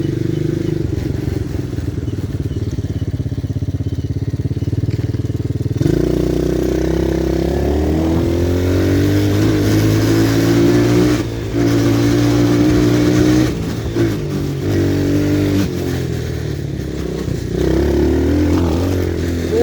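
Pit bike engine running at low revs, then about six seconds in it is opened up and ridden, its pitch rising and falling, with several brief drops where the throttle is let off.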